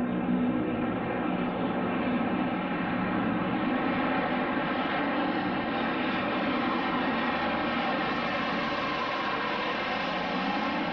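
Airplane engine droning steadily, its pitch shifting slowly in the last few seconds.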